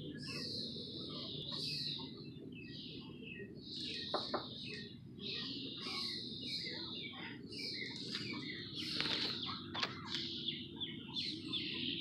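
Several birds calling over and over in quick succession, short sharp chirps that sweep downward in pitch, overlapping one another, with a steady low rumble of background noise underneath.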